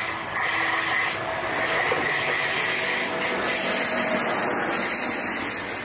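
A train running on the rails, a steady rattling rumble of wheels and cars that fades a little near the end.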